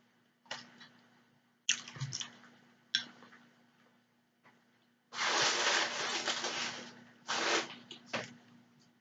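Close-miked eating sounds of spaghetti with cheese: a few short, wet mouth smacks and clicks, then a longer wet sound lasting about two seconds halfway through, and two more short ones near the end.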